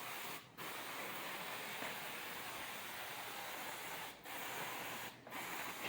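Muc-Off bike cleaner being sprayed over a muddy bike, a steady hiss broken by brief pauses about half a second in and twice near the end.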